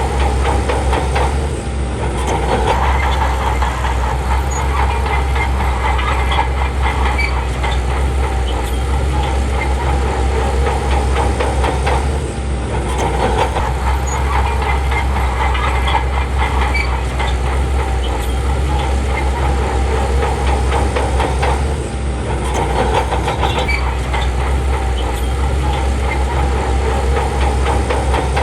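Shantui crawler bulldozer's diesel engine running under load with the steel tracks clanking steadily. The sound swells and eases in repeating cycles about every ten seconds, with a brief dip at each change.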